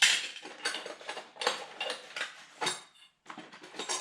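Metal exhaust parts being handled, clinking and knocking against each other and the bench in a string of irregular sharp knocks, the loudest right at the start.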